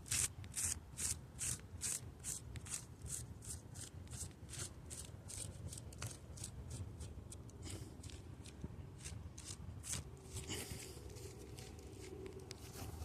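Quick, even scraping strokes, about two or three a second, of hands scratching and rubbing at hoodie fabric to get stuck twigs and burrs off. The strokes are loudest at first and fade, with a longer rustle about ten seconds in.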